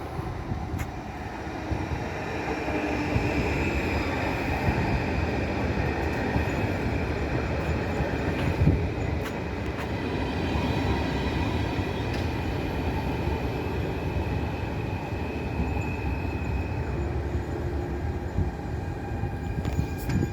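Train running past on the rails: a loud, steady rumble of wheels and running gear that builds over the first couple of seconds, with thin high tones, typical of wheel squeal, held over it.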